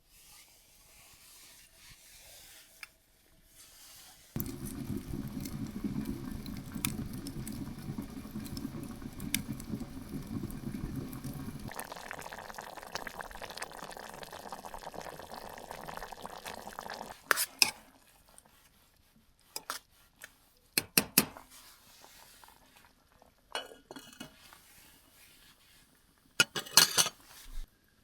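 Camp cookware in use: liquid poured into a pot for several seconds, first with a low rushing sound and then a lighter, higher hiss, followed by several sharp clinks of metal pots and utensils.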